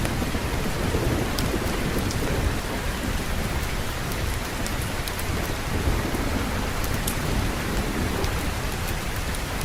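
Steady heavy rain with a low rumble of thunder underneath, and scattered small sharp ticks on top.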